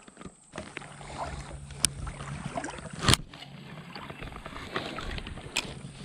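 Water sloshing and rustling in a shallow creek, with a steady low hum and three sharp knocks, the loudest about three seconds in.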